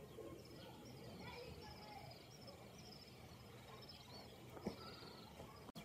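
Faint birdsong: a small bird chirping in short, quickly repeated high phrases over low background noise, with one brief knock near the end.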